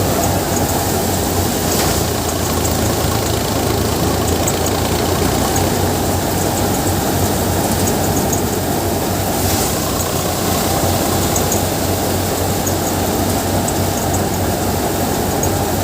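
Sonalika 50 RX tractor engine running steadily under load, driving a Gill seven-fan paddy thresher whose drum and fans whir with a loud, even rushing noise over the engine's low hum.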